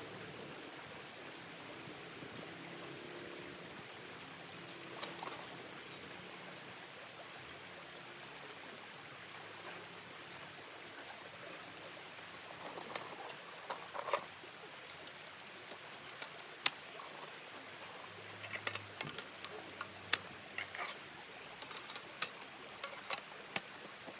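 Scattered small clicks and taps over a faint steady hiss, coming more often in the second half.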